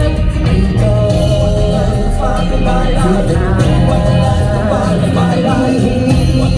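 Live J-rock band playing loud, with a sung vocal line over the band.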